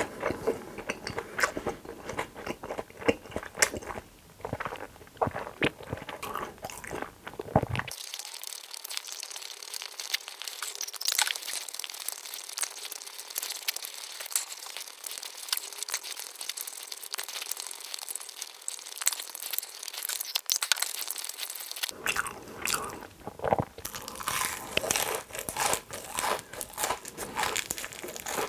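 Close-miked chewing of fried fast food: wet mouth clicks and crisp, irregular crunching throughout. For a long stretch in the middle the sound turns thin, its low end cut away.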